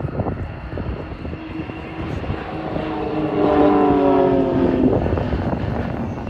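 Piston-engined propeller aerobatic aircraft flying a display pass: the engine and propeller note swells as the plane comes closer, is loudest between about three and a half and five seconds in, then fades as it moves away.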